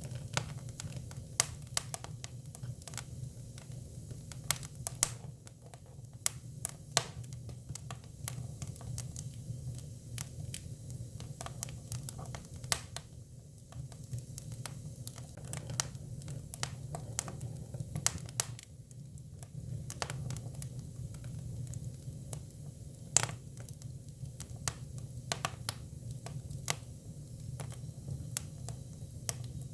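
Hinoki cypress firewood burning, with irregular sharp crackles and pops, several a second, over a low steady rumble from the fire.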